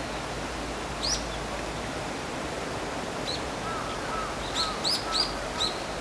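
Short, sharp, high bird chirps: one about a second in, another a little after three seconds, then a quick run of four near the end, with softer, lower warbling notes underneath them. A steady outdoor hiss runs beneath.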